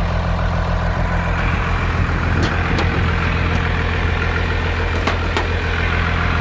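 12-valve Cummins turbo diesel idling steadily, with a few light clicks over it.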